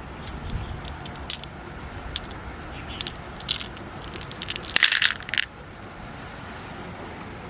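Sharp scattered clicks and clinks of hard shell being handled, with a quick run of them about five seconds in, over a low steady rumble.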